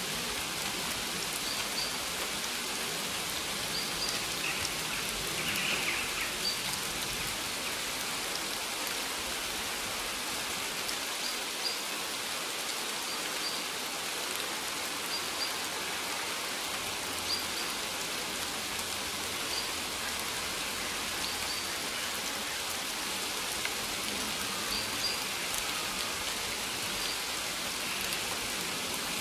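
Steady rain falling on maize plants, an even patter of drops on the leaves.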